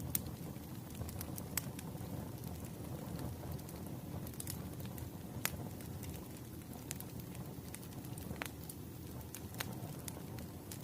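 Wood fire burning with a steady low rumble and scattered sharp crackles and pops of burning logs.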